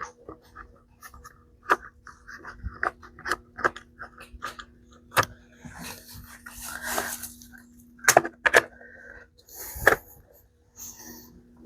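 Scattered clicks, knocks and short scrapes of small plastic and metal chainsaw parts and screws being handled and fitted back together during reassembly, over a steady low hum.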